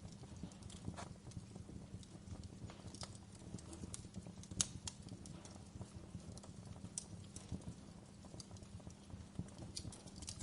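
Wood fire in a fireplace crackling, with irregular sharp pops and snaps over a steady low rumble; one pop near the middle is louder than the rest.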